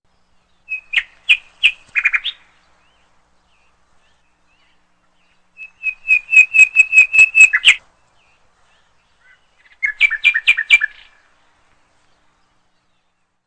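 A small bird chirping: three bursts of quick repeated high chirps, about a second in, around six seconds in and around ten seconds in, the middle burst the longest.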